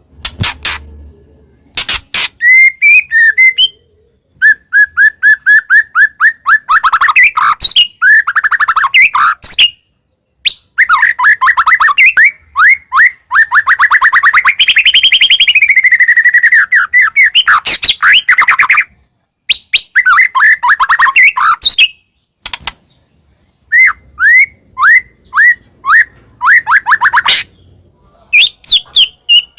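White-rumped shama singing loudly in long phrases of fast repeated whistled notes and trills, rising and falling in pitch, with sharp clicking notes and brief pauses between phrases.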